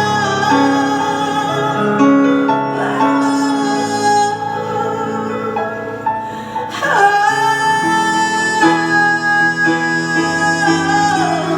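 Live song performance: a singer holding long, sliding notes over steady instrumental accompaniment.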